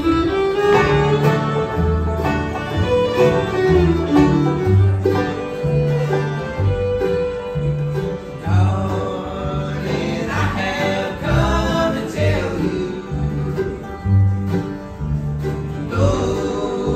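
Live bluegrass band playing, with banjo and guitar picking over a stepping bass line and a melody line near the top.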